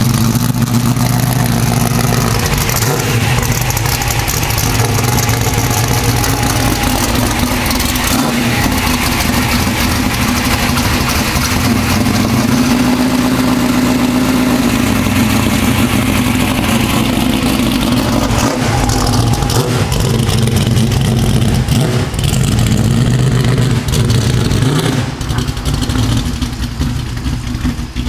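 Car engine heard through a full exhaust with 3-inch Goerlich X107 mufflers, running steadily; its pitch rises and eases back twice, around the middle and again later on.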